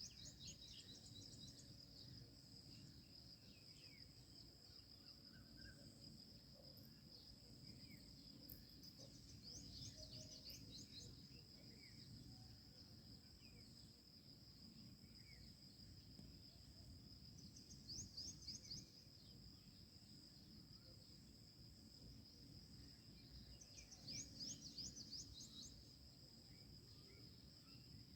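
Faint outdoor morning ambience: insects keep up a steady high-pitched drone, and birds break in with short bursts of rapid high chirps about four times.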